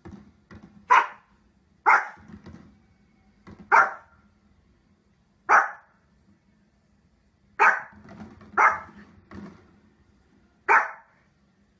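A dog barking: seven loud single barks at uneven intervals, with quieter sounds between them.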